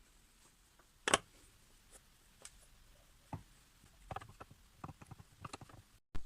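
Scattered clicks and light knocks, with one louder knock about a second in and a run of small clicks from about four seconds in.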